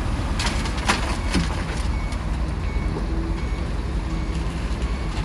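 Bulldozer's diesel engine running steadily under load, with a few sharp metallic clanks about half a second to a second and a half in. Faint short beeps recur now and then.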